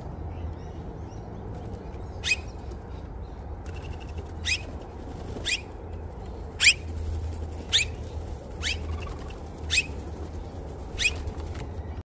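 A bird giving short, sharp whistled calls that sweep quickly in pitch, about eight of them spaced roughly a second apart starting about two seconds in, over a low steady rumble.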